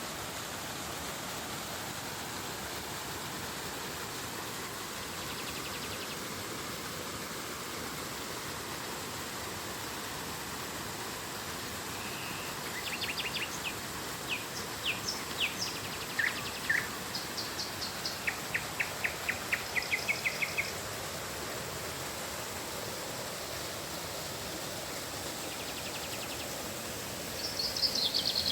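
Steady rush of flowing river water, with birds calling over it: a run of quick chirps and trills from about halfway through, and another burst of calls near the end.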